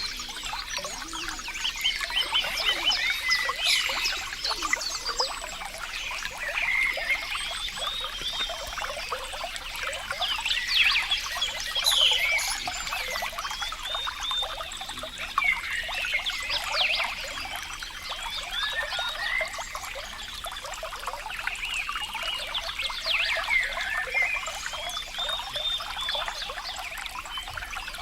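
Water trickling and splashing steadily, with frequent short chirping calls of small animals over it.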